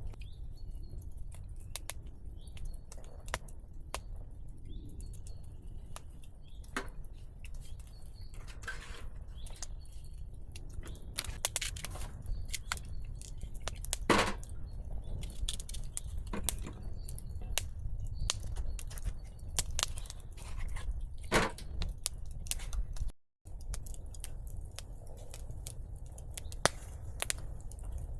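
Scattered sharp clicks, crunches and snaps of hands handling things in the forest, with two louder snaps, about midway and about three-quarters in. Birds chirp faintly in the first few seconds, and the sound cuts out briefly once near the end.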